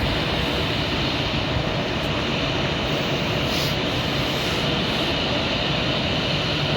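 A passenger train in motion, heard from inside the carriage: a steady rumble and rush of running noise at an even level.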